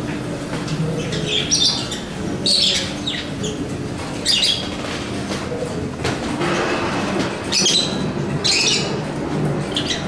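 Aviary birds squawking and chirping in short harsh calls every second or so, over a steady low hum.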